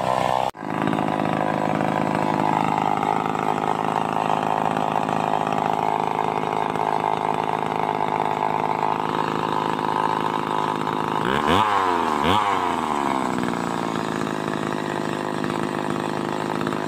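Stihl 038 two-stroke chainsaw running steadily at speed, with two quick throttle blips, pitch rising and falling, about two-thirds of the way through.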